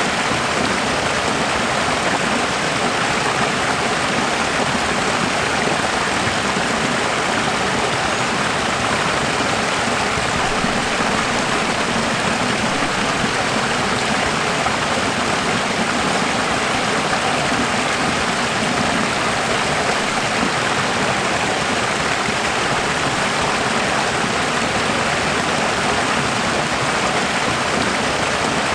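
Running water, steady and unchanging, like a stream or small waterfall.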